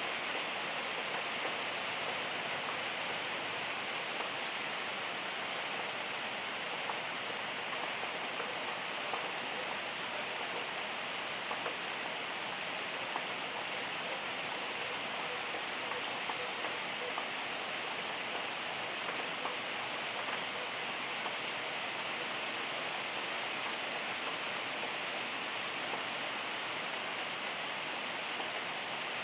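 Steady rainfall: an even hiss with scattered louder drop ticks.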